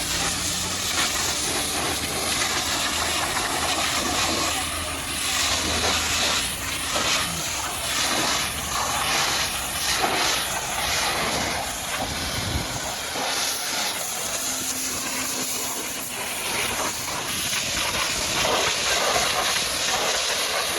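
High-pressure washer jet spraying onto a muddy truck, a steady hiss that surges and dips as the spray moves over different surfaces. A low hum runs under it for the first half and then drops away.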